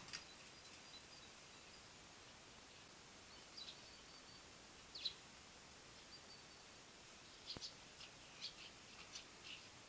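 Near silence with faint, scattered bird chirps and a few short, high whistled notes, more frequent near the end.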